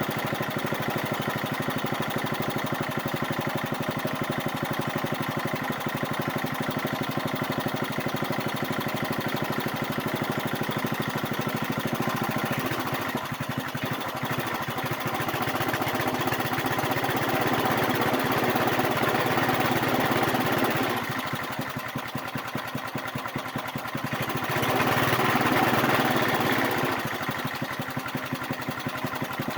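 Old Briggs & Stratton small engine running after sitting seven years without being started, its speed rising and falling several times, with the loudest stretch a little before the end.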